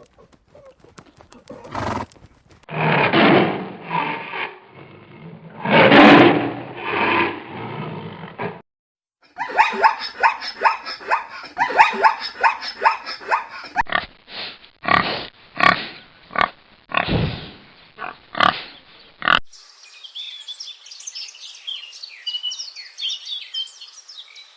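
Animal calls from different animals in succession. Two long, loud calls come in the first third, then a fast run of short harsh grunt-like calls. Near the end there is a quieter steady hiss with small chirps.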